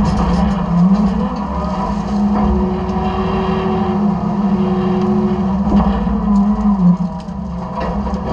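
Side-loader garbage truck's diesel engine and hydraulics running, the engine speeding up about a second in as the hydraulic cycle works and dropping back near the end. A few light clicks and clatters come through over the steady hum.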